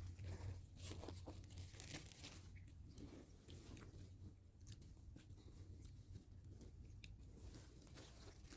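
Near silence: room tone with faint, scattered clicks and rustles.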